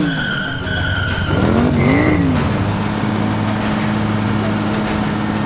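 Cartoon-style car sound effects: tyres screeching while an engine revs up and down, a second rev about two seconds in, then a steady engine drone from about two and a half seconds in.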